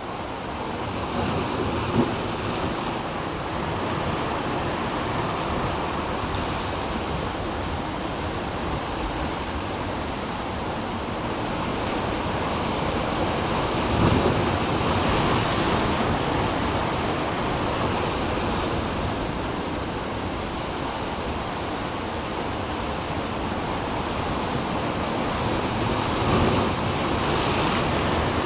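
Ocean surf surging and washing between coastal rocks in a continuous rushing roar. It swells louder about halfway through and again near the end as bigger surges come in.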